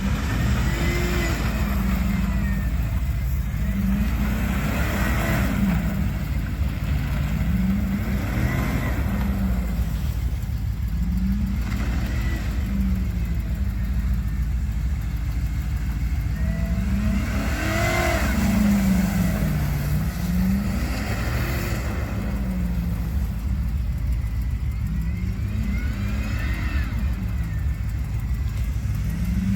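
Pickup truck engine revving up and dropping back over and over, its pitch climbing and falling every few seconds, as it is pushed for donuts.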